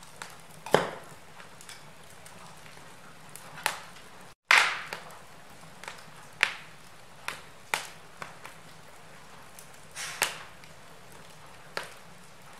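Wood fire in a fireplace crackling: irregular sharp pops and cracks from the burning logs, one every second or so, over a low steady hiss. The sound cuts to silence for an instant a little before halfway, and one of the loudest pops follows right after.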